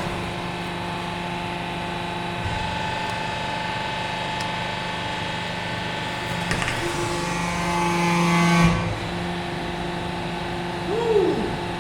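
Hydraulic press power unit running with a steady motor hum. About six and a half seconds in it grows louder for about two seconds, then drops back, with a few faint ticks.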